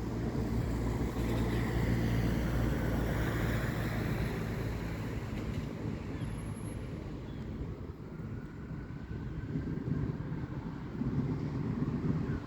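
Road traffic passing: a vehicle's engine and tyres are loudest in the first few seconds, then fade. Another vehicle swells up near the end, with some wind noise on the microphone.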